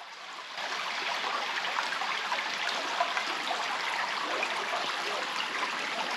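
Creek water running steadily, a continuous babbling and splashing flow.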